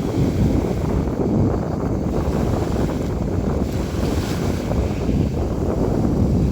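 Sea waves splashing and washing in a steady rush, with wind noise on the microphone.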